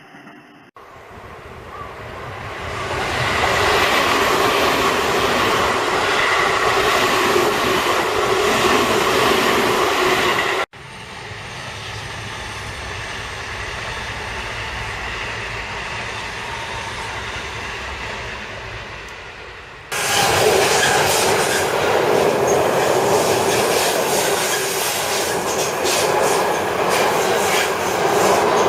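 Seibu Railway electric trains passing on the rails with wheel clatter and some wheel squeal. The sound comes in three separate takes that cut abruptly from one to the next; the middle take is quieter.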